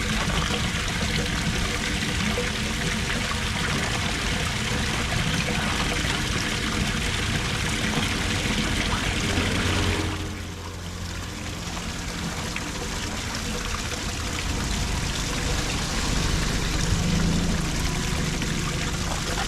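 Floodwater pouring steadily down into a cleared street storm drain. The rush drops abruptly about ten seconds in, then slowly builds again.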